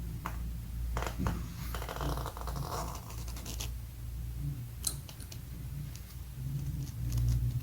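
Metal clicks and scraping as brake pads and their hardware are worked into the caliper bracket, with a fast run of ticks a couple of seconds in, over a steady low hum.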